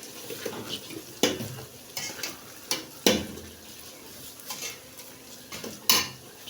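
A spoon stirring and scraping through fried rice in a pot, knocking against the pot every second or so, over a steady faint sizzle of frying.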